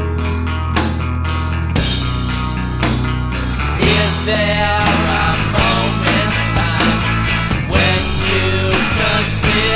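Rock music from a 1997 7-inch record, a full band with a sustained bass line and regular drum hits, growing denser about four seconds in.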